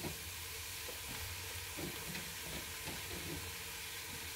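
Meat frying in an electric multicooker pot: a steady sizzle, with small soft knocks as pieces of raw liver are dropped in by hand.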